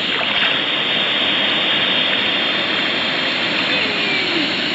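Steady rushing of a waterfall pouring into a river pool.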